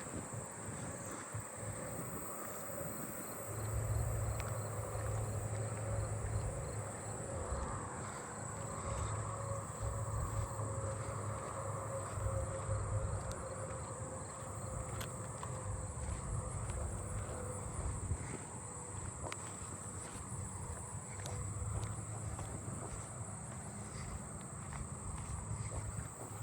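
Insect chorus of fall field crickets and agile meadow katydids: a steady high-pitched buzz with faint repeated chirps, over a low rumble.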